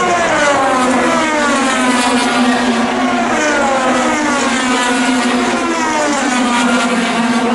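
IndyCar twin-turbo V6 engines running at racing speed, their pitch rising over the first couple of seconds and then falling away as the cars pass and lift for a turn.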